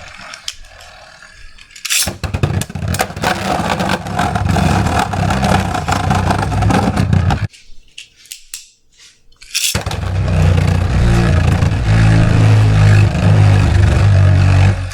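Beyblade spinning tops whirring and scraping in a plastic stadium, one of them a 3D-printed Mystic Ultraus. A sharp launch-like crack about two seconds in starts the first stretch. The sound breaks off abruptly near the middle, then starts again with a sharp crack just under ten seconds in, now with a heavier rumble.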